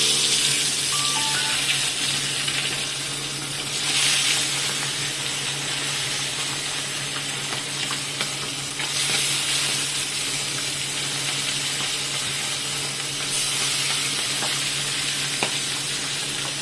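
Pieces of bhetki (barramundi) fish sizzling as they fry in hot oil in a kadai. The sizzle swells louder several times, about every four to five seconds, as more pieces go in.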